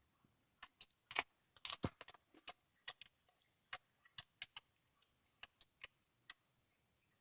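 A cat chewing a squirrel: irregular sharp crunching clicks as its teeth work through bone and flesh, a quick cluster in the first couple of seconds and then sparser bites that stop about six seconds in.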